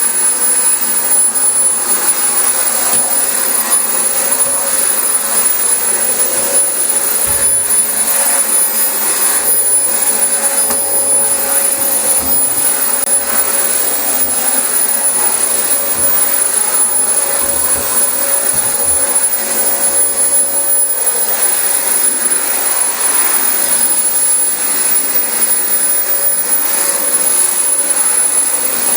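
Dyson DC25 bagless upright vacuum cleaner running steadily on carpet, a loud even rush of air with a steady high whine.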